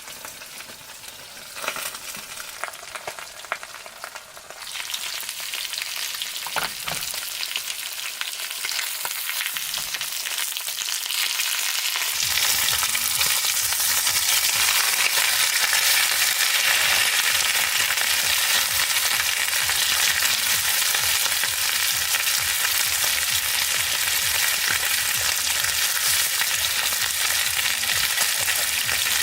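Food frying in hot oil, a dense sizzle that swells over the first several seconds and then holds steady and loud, stopping suddenly at the end.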